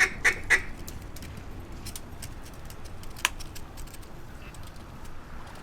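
A mallard duck call blown in a hen's quacking cadence: three loud, evenly spaced quacks in the first half second, the tail of a longer run, about four a second. A single sharp click comes about three seconds in, over a faint steady outdoor background.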